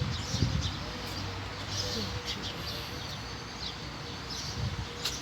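Small birds chirping: many short, high calls, one after another, over a low rumble.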